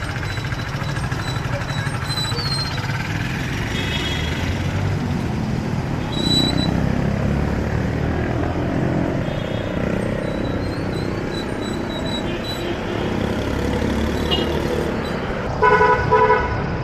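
City street traffic: steady engine and tyre noise of passing vehicles. Near the end a vehicle horn honks twice in short beeps.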